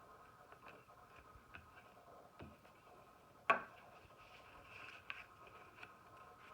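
Paper being handled and folded on a table: faint scattered ticks and rustles, with one sharper tap about three and a half seconds in. A faint steady hum sits underneath.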